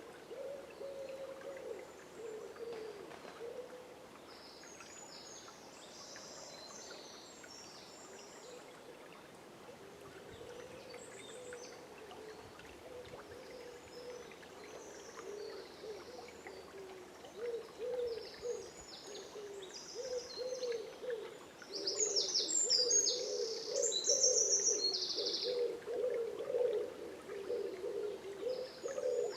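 Birds calling in a dawn forest: a low call repeated over and over, with higher, quicker chirps from small songbirds that grow busier and louder in the last third.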